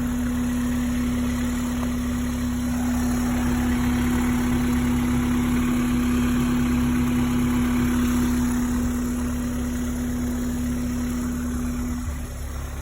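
Honda S2000's 2.2-litre DOHC VTEC four-cylinder engine idling steadily, heard with the hood open; a steady hum in it stops near the end and the sound gets a little quieter.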